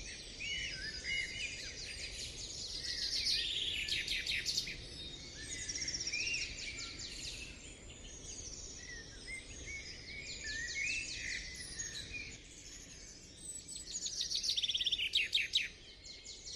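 Several birds chirping and calling, with rapid high trills that come in bursts, over a faint background hiss.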